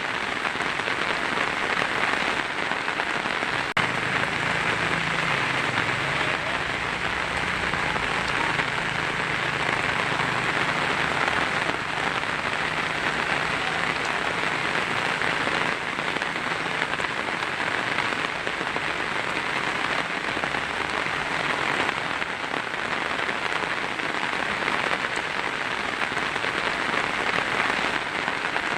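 Heavy rain falling steadily on a tin roof: a dense, even hiss of drops with fine scattered ticks. A faint low rumble sits underneath from about four seconds in to about sixteen.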